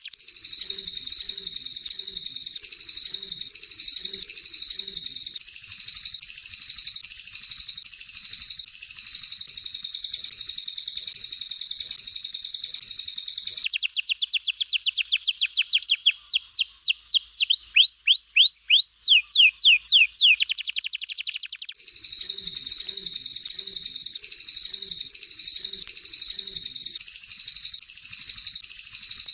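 Recorded canary and cililin song for training songbirds: a dense, very high, rapid trill, which changes about halfway through to a quick series of downward-sweeping whistled notes. The dense high trill then returns near the end.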